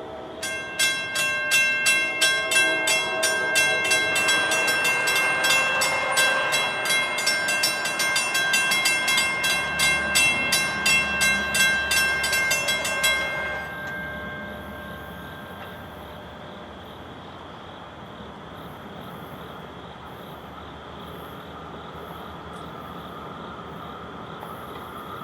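A passenger train's bell ringing with rapid, even strokes as the train comes into the station, stopping about 13 seconds in. After that only the steady rumble of the train rolling by is left.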